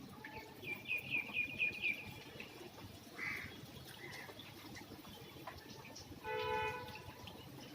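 A bird calls a quick run of about seven high chirps, then a single shorter call. About six seconds in comes a brief pitched honk like a vehicle horn, over a steady low background.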